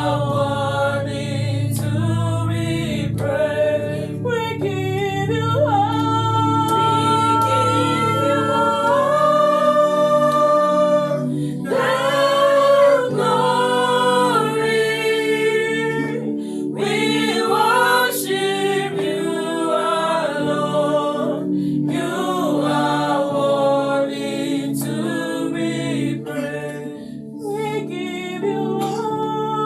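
Choir singing a Christian worship song in harmony, with long held notes.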